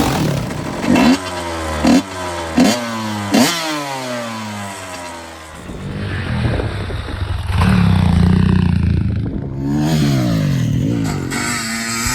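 Honda CR250's two-stroke engine revved in sharp throttle blips: four quick blips in the first few seconds, each falling away, then held at a steadier rev and swept up and down again near the end.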